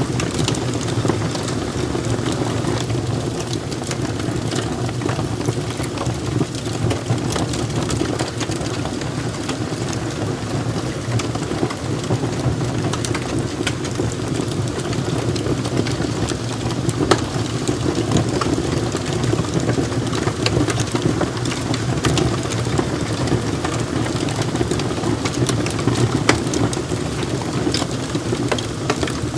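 Log fire burning in a fireplace: a steady low rush of flames with frequent sharp crackles and pops from the logs, one louder pop about halfway through.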